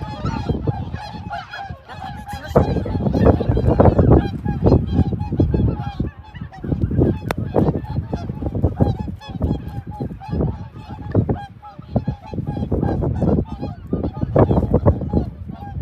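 A large flock of waterfowl honking continuously, many short calls overlapping.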